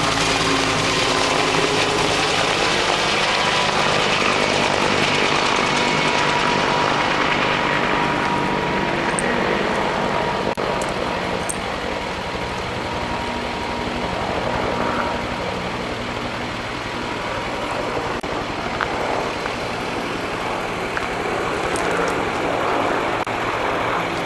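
Firefighting helicopter's rotor and engine running steadily, with a thin steady whine above them. The sharper high end fades over the first eight seconds or so as the sound grows duller.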